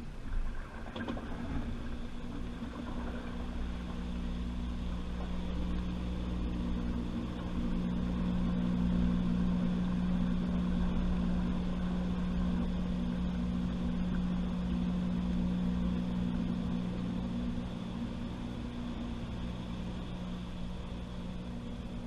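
Washing machine running, its motor giving a steady hum over a low rumble, after a knock about half a second in.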